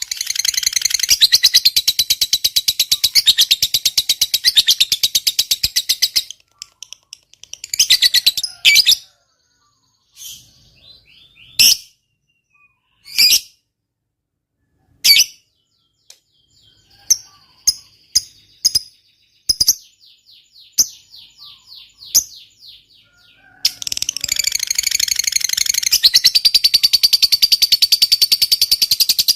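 Lovebird singing its long, very rapid chattering trill (ngekek panjang), breaking off about six seconds in into sharp single chirps and short trills, then resuming the long chatter near the end.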